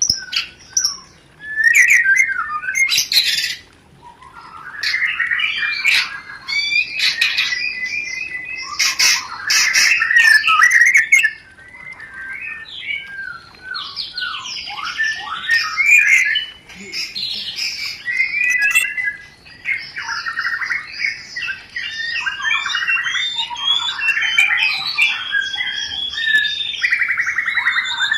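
White-rumped shama (murai batu) giving its breeding-season mating song: a varied, rapid chattering song of quick whistled glides and buzzy trills, broken by short pauses.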